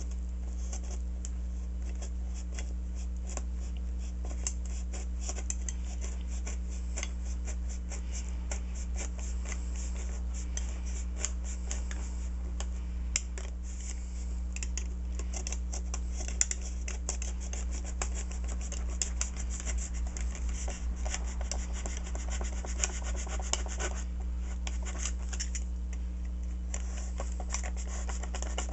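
Snap-off utility knife blade cutting through foam: a continuous, irregular crackling scratch as the blade is drawn through the material, over a steady low hum.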